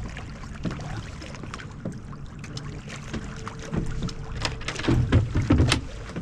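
Knocks and clicks of fishing gear being handled aboard a boat, over a steady low rumble. A steady thin hum comes in about three seconds in, and a few louder knocks follow near the end.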